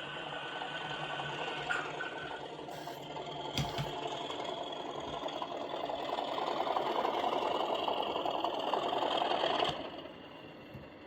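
OO gauge model locomotives running on the track: the whirring rattle of the motors and wheels over the rails, mixed with DCC sound-chip engine sound. A sharp click comes about three and a half seconds in; the rattle swells and then stops abruptly near the end.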